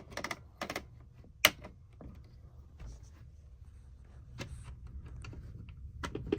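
Scattered small plastic clicks and knocks from the Thomas and Friends toy clock being handled around its battery compartment, with one sharp click about a second and a half in.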